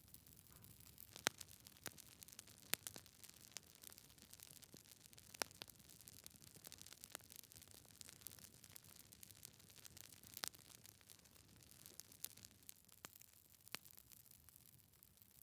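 Log fire crackling in a fireplace: irregular sharp pops and snaps of burning wood over a faint steady hiss. The loudest pops come about a second in, near three seconds in, and around ten seconds in.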